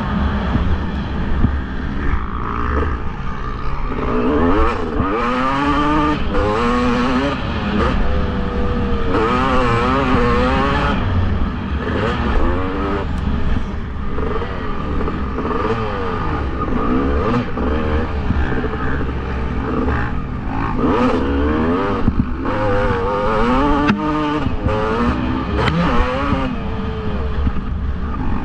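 Motocross bike engines revving up and down repeatedly as they race, the pitch rising and falling with each throttle burst and gear change, over a steady low rumble.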